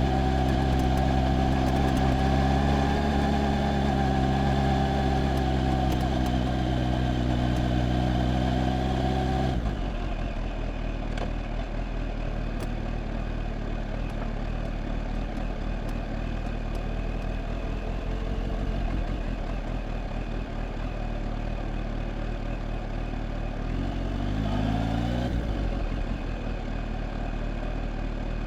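Kawasaki Z H2 motorcycle's supercharged inline-four engine running at a steady speed, with a strong even tone. After about nine and a half seconds the sound drops suddenly to a quieter, rougher running, and a short rising rev comes near the end.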